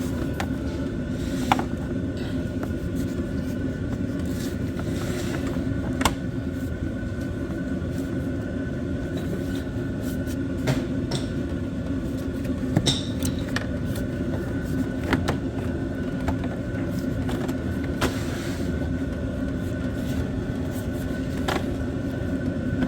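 Short sharp clicks and knocks from plastic engine-bay parts being pushed and snapped into place, scattered through a steady low hum.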